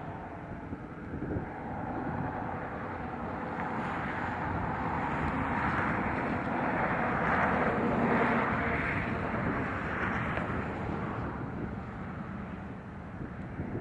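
A train passing, a steady rumble of wheels on rail that builds to its loudest about eight seconds in and then eases off.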